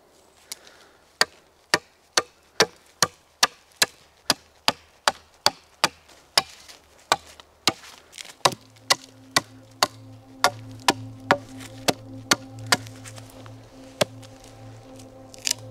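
A long run of evenly spaced blows of a tool on wood, about two to three a second, growing weaker and stopping near the end. Low steady background music comes in about halfway through.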